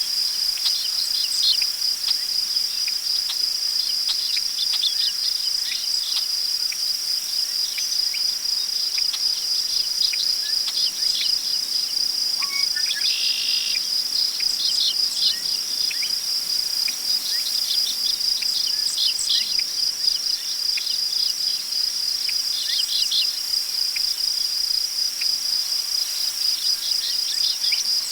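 Crickets chirring in one steady, high, finely pulsing trill without a break, with scattered short bird calls over it. A brief buzzy bird call stands out twice, about halfway through and again later.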